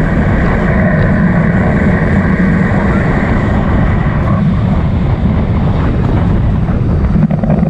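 Jet ski (personal watercraft) engine running, heard as a loud, steady rumble mixed with wind noise on the microphone.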